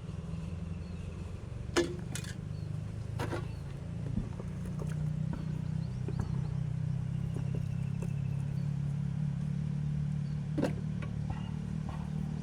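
A motor or engine running steadily with a low hum that grows a little louder about five seconds in, with a few sharp clicks or knocks over it.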